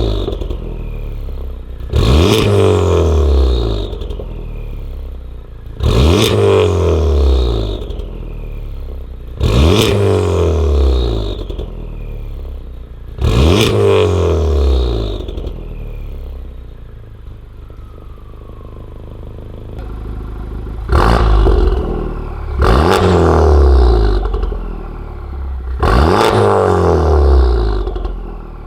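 Honda Civic Type R's turbocharged 2.0-litre four-cylinder, breathing through a catless downpipe and a Remus valved cat-back with the valves fully closed, revved in seven sharp throttle blips, each rising quickly and falling back to idle. There is a longer idle gap of several seconds in the middle.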